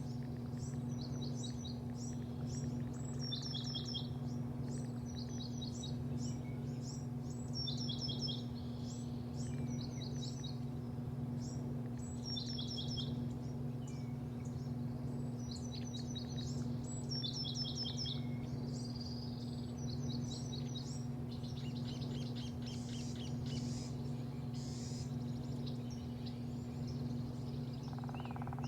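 Birds chirping in short quick bursts of high, falling notes, repeated every second or two, over a steady low machine hum.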